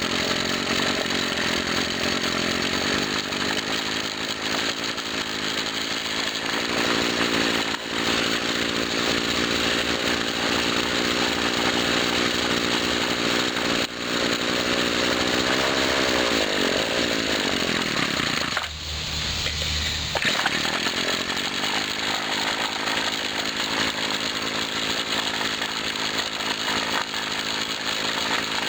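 Two-stroke engine of a 1997 Husqvarna 24cc straight-shaft string trimmer running on its freshly rebuilt Walbro carburetor. The revs fall away about two-thirds of the way through and drop low for a moment, then pick back up and it runs on.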